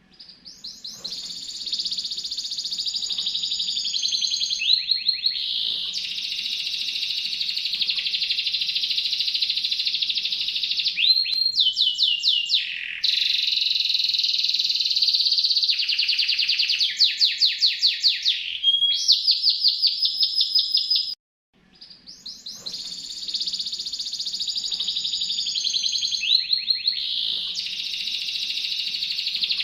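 Domestic canary singing a continuous, high-pitched song of fast rolling trills and twittering runs. It breaks off for a moment about three-quarters of the way through, then the same song starts over.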